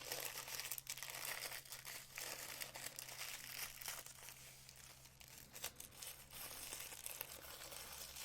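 Packaging crinkling and rustling in the hands as jewelry clasps are unwrapped, with many small sharp clicks throughout.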